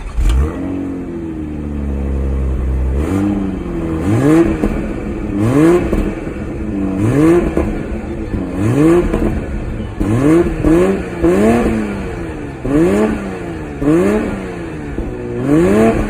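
BMW Z4 engine and exhaust flaring loudly at the start and settling to a steady idle, then blipped about ten times in short throttle revs that rise and fall back to idle, with the car stationary.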